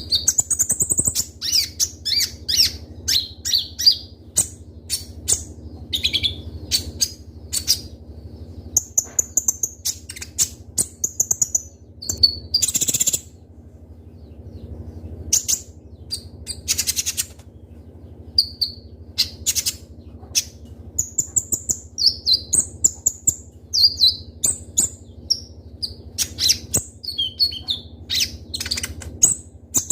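Kolibri ninja (konin), a sunbird, singing: rapid, sharp, high chirps and quick trills in bursts, with a brief pause midway. A steady low hum runs underneath.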